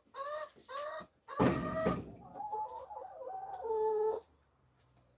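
Backyard chickens clucking: a quick run of short rising calls, a louder harsh squawk about a second and a half in, then a couple of seconds of longer wavering calls.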